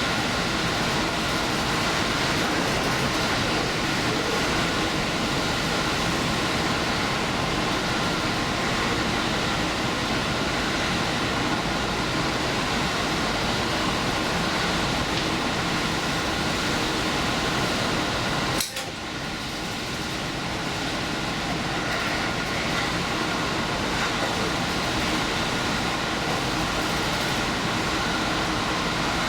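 Steady running noise of a diesel express train under way, heard from inside the leading car, with faint steady tones over the rumble. About two-thirds of the way through, a single sharp click and a brief dip in the sound.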